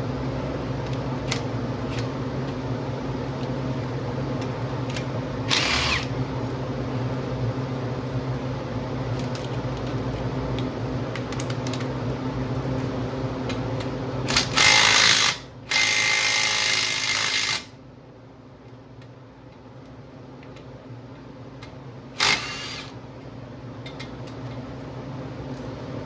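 Power tool run in short bursts: a brief burst about five seconds in, two longer ones past the middle, and a short one near the end. Under them is a steady mechanical hum that drops away after the long bursts.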